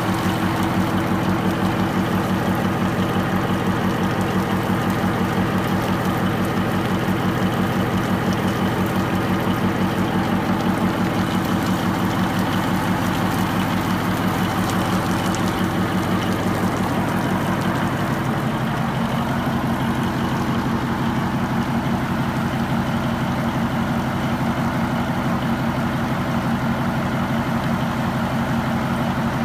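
Baudouin marine diesel engine with its Masson gearbox running steadily, a fast even beat. Its note changes about two-thirds of the way through.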